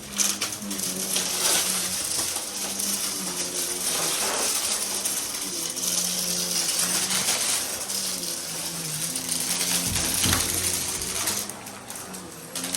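Vacuum cleaner running with a steady airflow hiss and a dense rattling, clicking texture; the sound drops somewhat near the end.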